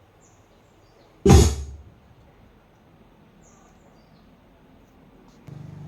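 One sharp, loud thump about a second in, with a short low boom after it. Faint high chirps sound in the background, and a steady low hum starts near the end.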